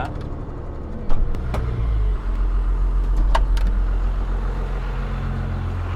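Freshly rebuilt Cummins straight-six turbo diesel idling, with a few sharp ticks over the steady running; its note drops lower and louder about two seconds in. The ticking comes from a leaking joint that stops ticking once it is clamped.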